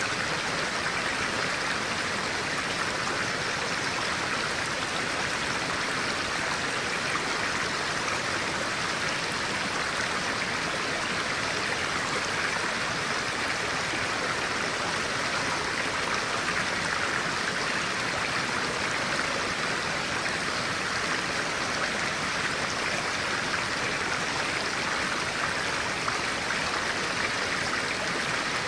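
Stream of clear water running steadily, an even rushing flow with no let-up.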